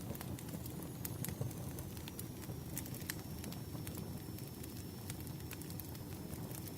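Wood campfire burning: a steady low rumble of flames with sharp, irregular crackles and pops, and a faint high thin whistle running underneath.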